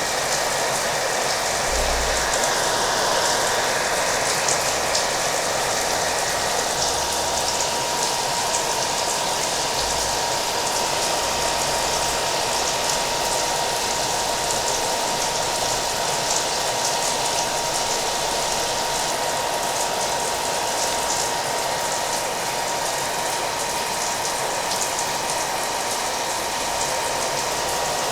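A hair dryer running steadily with a constant whine, mixed with falling rain.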